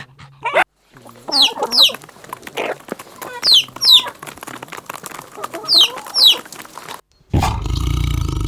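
Chickens clucking and calling, with pairs of sharp, high, falling cries among the clucks. The last few barks of a dog end the first moment. About a second before the end the sound cuts abruptly to a loud, steady low rumble with faint bird chirps.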